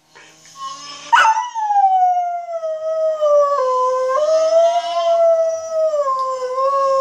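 A dog rooing: one long, howl-like roo starting about a second in, its pitch slowly dipping and wavering.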